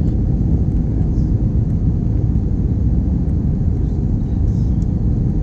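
Steady low rumble inside the cabin of an Airbus A321 with IAE V2533 engines: engine and airflow noise, with no distinct events.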